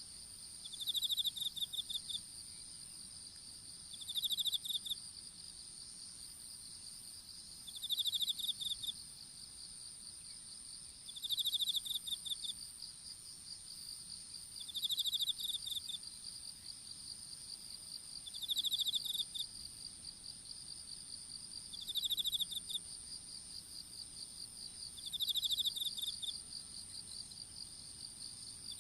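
Insects singing: a continuous, very high trill runs alongside a slightly lower pulsing one, while another insect gives short, rapidly pulsed chirp bouts about a second long, roughly every three and a half seconds.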